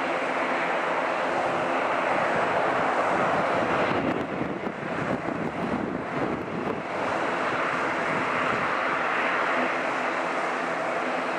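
Jet airliner engines running with a steady roar and a humming tone underneath. The sound dips and wavers for a few seconds in the middle, then returns steady.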